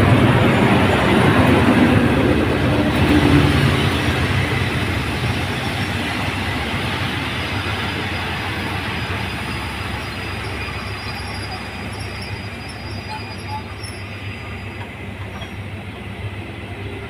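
Diesel-electric locomotive number 4533 running close by as it passes, then passenger coaches rolling past and slowing for a station stop. The rumble fades steadily, with a few faint high squeals in the second half as the train brakes.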